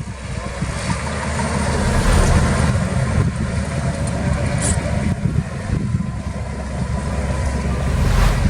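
Heavy earthmoving machine's diesel engine running steadily under load, deep and continuous.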